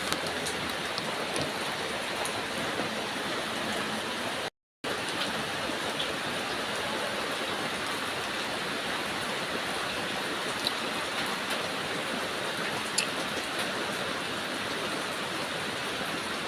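Steady rain falling, a constant hiss with scattered drop ticks; the sound drops out to dead silence for a moment about four and a half seconds in.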